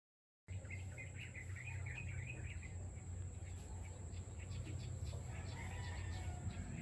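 Faint bird chirps starting about half a second in, over a steady low hum and a thin high-pitched whine.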